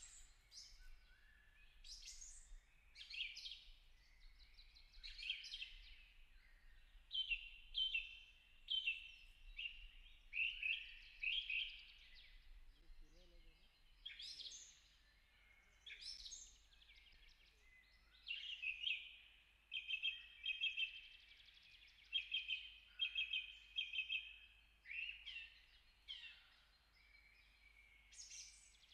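Birds chirping in quick runs of short, high notes, repeating throughout over faint outdoor background.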